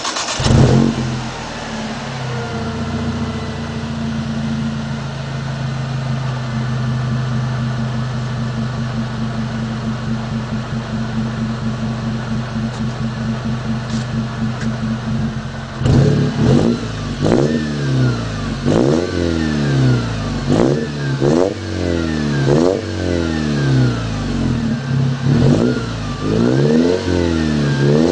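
Mercedes-Benz C230 Kompressor's supercharged four-cylinder engine through a MagnaFlow aftermarket exhaust: it fires up with a brief flare, settles into a steady idle, then about halfway through is revved repeatedly in quick blips that rise and fall.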